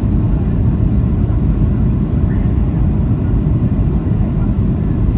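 Steady low rumble inside the cabin of a Boeing 737-800 airliner: the CFM56 engines and the airflow over the fuselage.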